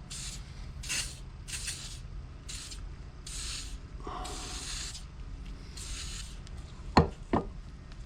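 Short repeated hisses of an aerosol cleaner being sprayed onto a small fuel tank filter to flush it out, about seven bursts, followed by two sharp knocks near the end.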